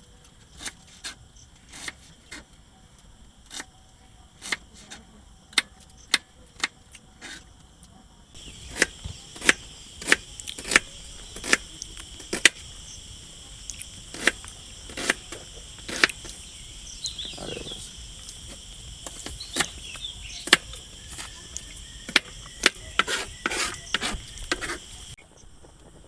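Crickets trilling steadily, coming in abruptly about 8 seconds in and cutting off near the end, with sharp irregular clicks or taps about once or twice a second throughout.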